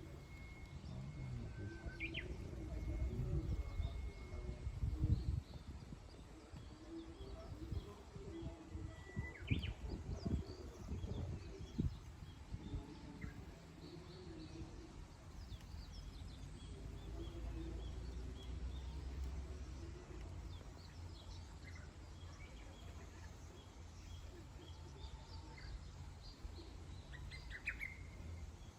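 Wild birds chirping and calling in scattered short notes, with one held whistle near the start and a quick rising whistle about ten seconds in. Underneath runs a low rumble with a few dull thumps, loudest a few seconds in and again around ten seconds in.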